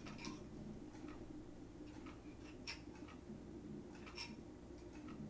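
A few faint, scattered clicks from handling small metal tools, over a steady low hum.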